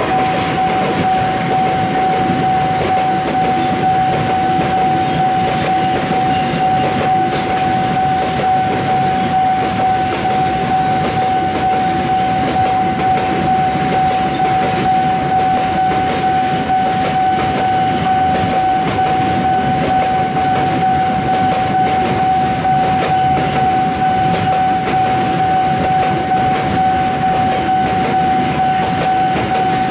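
Freight train of cement wagons rolling steadily past a level crossing, its wheels rumbling and clicking over the rails. A steady high tone holds one pitch throughout.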